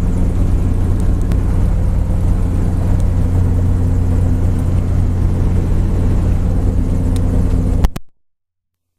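Robinson R44 helicopter's piston engine and rotors running steadily on the ground, a loud, even drone heard from the cockpit. It cuts off abruptly about eight seconds in, with no wind-down.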